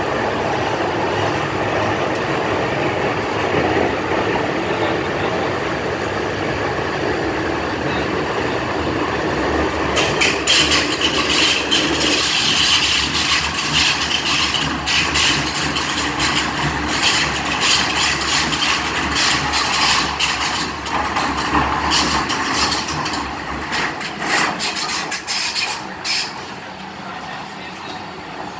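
MTR M-Train electric multiple unit running at speed through a tunnel, heard from inside the car: a loud, steady rumble of wheels on rail, with sharp rattling clicks from about ten seconds in. Near the end the noise drops as the train comes out of the tunnel into the open.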